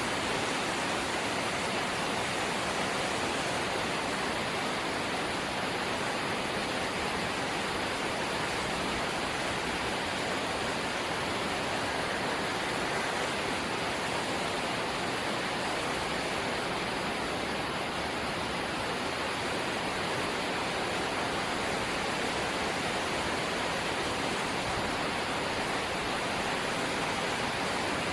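Light rain falling steadily: an even, unchanging hiss with no separate drops or thunder standing out.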